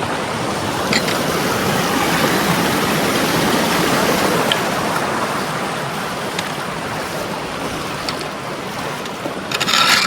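Floodwater rushing steadily through road culverts that are running full after rain. A short, louder, rougher noise rises near the end.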